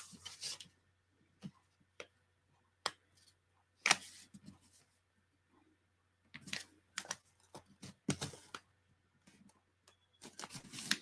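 Paper and craft materials handled on a tabletop while a paper belly band is glued onto a journal page: scattered light taps and paper rustles with short pauses between them, the sharpest tap about four seconds in and a cluster a little past the middle.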